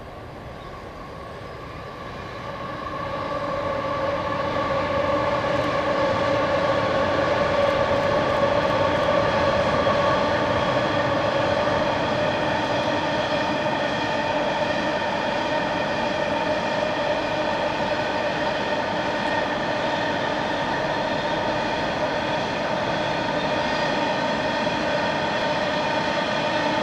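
Coal train's hopper wagons rolling across a rail bridge: a steady rumble of wheels on rails with a sustained ringing hum of several pitches, growing louder over the first few seconds and then holding.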